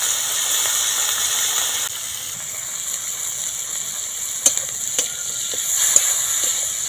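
Small prawns sizzling in hot oil in a wok, a steady hiss. From about four and a half seconds in, a spatula stirs them, with a few sharp clicks against the pan.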